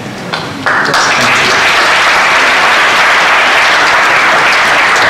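Audience applause in a meeting hall: a few scattered claps, then the whole room joins in abruptly just under a second in and keeps clapping steadily, in support of a call for an amicable parting from the RNLI.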